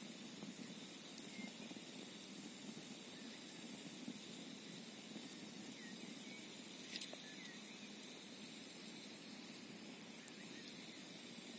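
Campfire burning with a steady hiss and a few sharp crackling pops, the loudest about seven seconds in. A few faint short chirps are heard in the second half.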